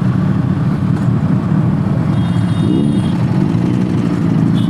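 Motorcycle engine running steadily, a dense low drone with a slight pitch wobble partway through.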